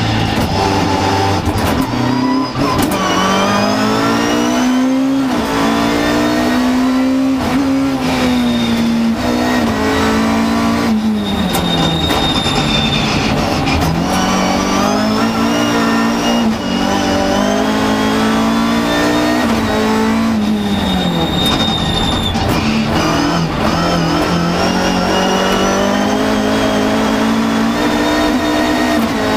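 Mk2 Ford Escort race car's engine heard from inside the cabin, revving hard on a sprint run, its pitch repeatedly climbing and then dropping back sharply as it lifts and changes gear.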